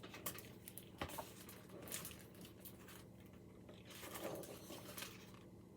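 Quiet room tone with a few faint clicks and soft rustles of handling, about a second in and again later.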